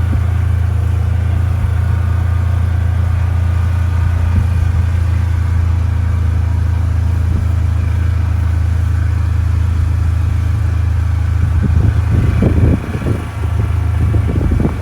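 Steady low drone of a running motor vehicle. Irregular low rumbles and bumps come in near the end.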